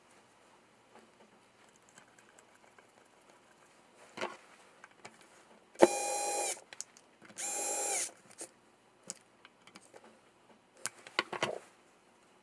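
Small electric power tool motor running in two short bursts of under a second each, with handling clicks and knocks before and after.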